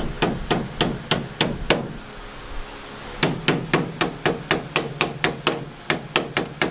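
Hammer tapping the sheet steel of a car's door post into shape, ringing metal blows at about three to four a second. A run of about six blows, a short pause, then a longer, faster run of about fifteen.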